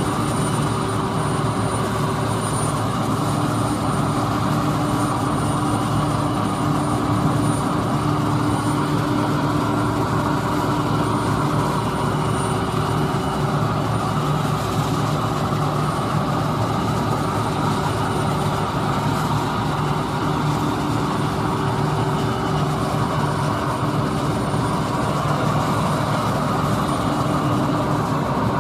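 Heavy farm machinery, such as a combine harvester or a tractor, running steadily. Steady whines sit over a deep engine drone, and the sound does not change.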